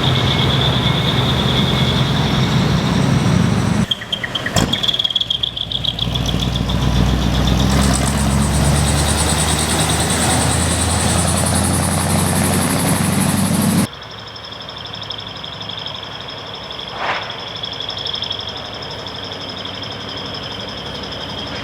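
Dekotora truck's engine running through a manifold-split exhaust, the engine note climbing for several seconds in the middle. About two-thirds of the way in it drops abruptly to a quieter, steady running sound.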